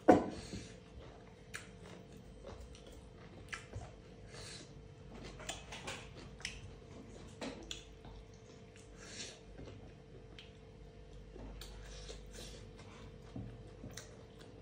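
Close-up eating sounds: a mouthful of dhido and curry, eaten by hand, chewed with short wet smacks and squishes at irregular intervals. A sharp knock right at the start is the loudest sound, and a faint steady hum runs underneath.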